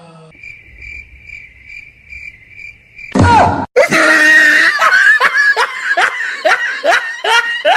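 A faint cricket-chirp sound effect, a high pulsing chirp about three times a second, then a loud shriek about three seconds in, followed by high-pitched rhythmic laughing, a little over two falling syllables a second.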